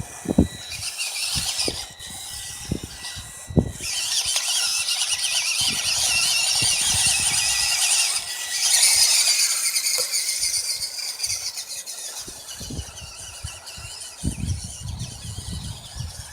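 Fayee FY002A RC truck's small electric motor and gearbox whining as it drives. The whine builds in the first seconds, holds loudest through the middle and eases off after about twelve seconds, with scattered knocks and clicks.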